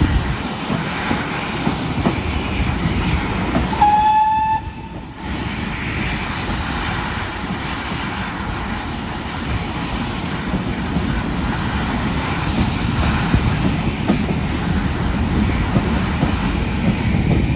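Steam-hauled train behind GWR 56xx-class 0-6-2 tank locomotive 5619 running along the line, with a steady rumble and the clatter of wheels over the rail joints. A short, high whistle blast sounds about four seconds in.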